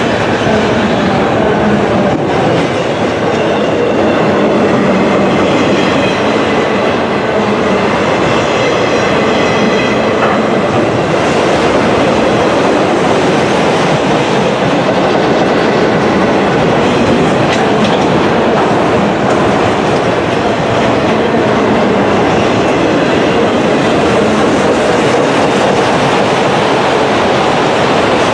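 Freight train cars rolling past, a steady clatter of steel wheels on rail. A faint high squeal runs from about 4 to 11 seconds in.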